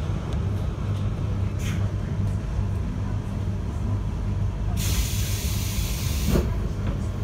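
JR 721 series electric train heard from inside the carriage: a steady low running rumble, with a sharp hiss of released air about two-thirds of the way in that lasts under two seconds and cuts off suddenly.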